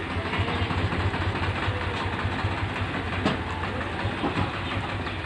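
Electric multiple unit (EMU) local train running past, a steady rumble with the wheels clattering over the rail joints and a sharp click about three seconds in.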